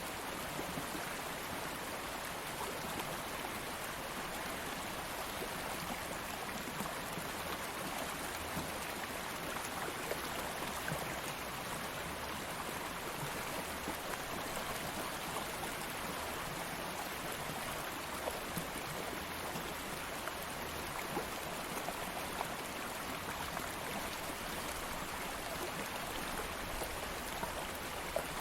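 Calm stream of flowing water, a steady even rush with small splashes and ticks scattered through it.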